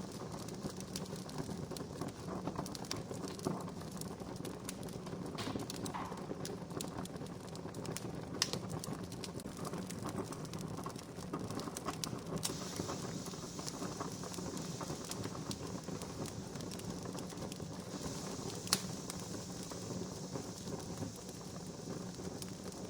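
Wood fire crackling, with a steady run of small snaps and a few louder pops. A soft hiss joins in about halfway through.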